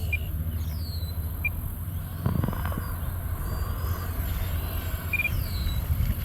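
Electric ducted fan of an E-flite Habu SS RC jet whining high in flight, its pitch sliding down in places as it passes, over a steady low rumble of wind on the microphone.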